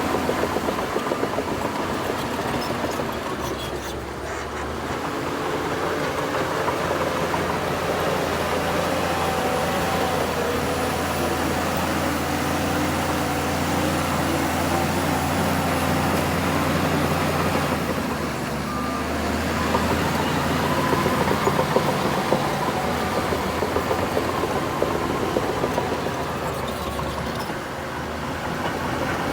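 Heavy diesel engine of a Shantui bulldozer running steadily, its note shifting a few times as the load changes.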